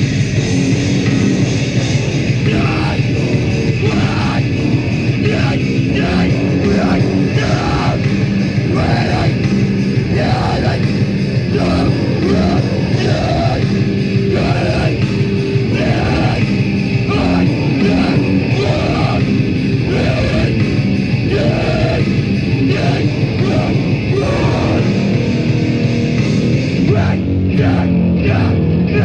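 Live heavy noise band playing loud: a dense wall of distorted guitar, bass and drums, with shouted or screamed vocals breaking in and out.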